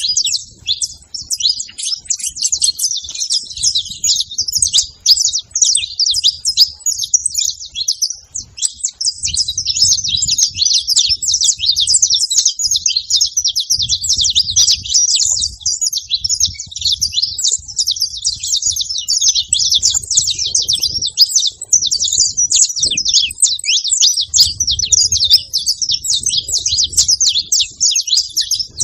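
Several saffron finches (canários-da-terra) singing together in a dense, continuous chorus of quick, overlapping chirps.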